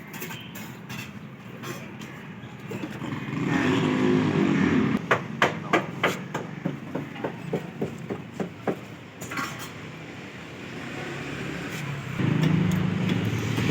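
A motor vehicle's engine running, heard twice, and between the two spells a run of about a dozen sharp knocks, about three a second, getting fainter.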